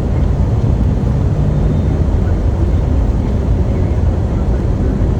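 Steady, loud low rumble with no break or change.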